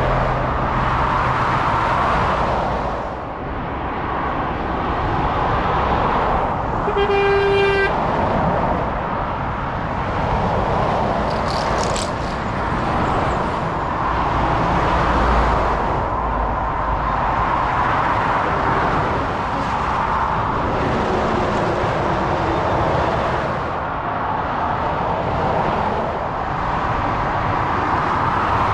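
Steady stream of motorway traffic, mostly lorries, with tyre and engine noise swelling and easing as each vehicle goes by. About seven seconds in, a vehicle horn sounds once for about a second, and a brief sharp click comes near the middle.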